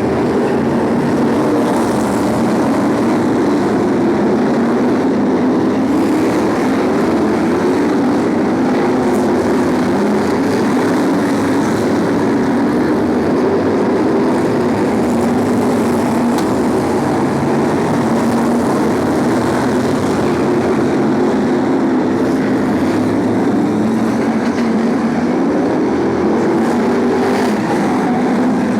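A pack of BriSCA F1 stock cars racing, their V8 engines running hard together in a loud, continuous drone. The pitch wavers up and down as the cars lap.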